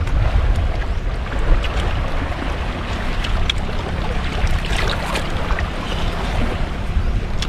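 Steady low rumbling background noise with scattered light clicks and taps.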